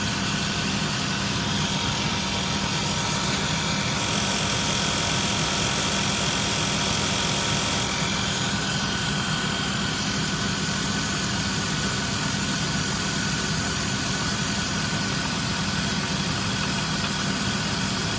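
Car engine idling steadily with a clicking noise that the owner wonders is the water pump going out.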